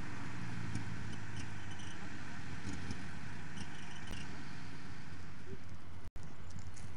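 An off-road 4x4's engine running steadily at idle. The sound cuts out for an instant about six seconds in.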